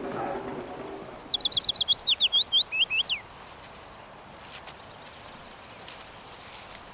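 A small songbird singing one phrase of about three seconds: a quick run of down-slurred notes that falls steadily in pitch and ends in a short flourish. After it come a few faint high calls.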